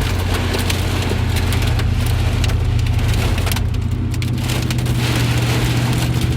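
Rain pattering hard on a moving car, with many sharp drop ticks over the steady low rumble of the car driving.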